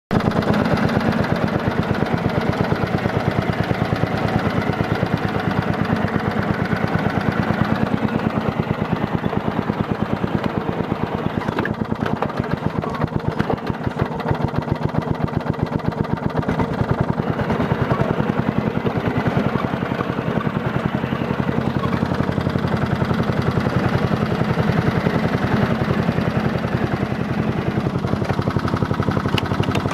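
Westwood lawn tractor's engine running steadily with an even firing rhythm on its first cold run since the snow, its tone shifting briefly about halfway through.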